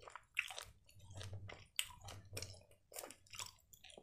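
Chewing a mouthful of soft gummy candy (marmalade) with the mouth closed, in faint short irregular mouth sounds, two or three a second.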